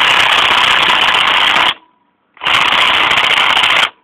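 Impact wrench (rattle gun) hammering on a bolt in two long bursts with a short pause between, a loud dense rattle, without shifting it: the owner calls the tool absolutely crap.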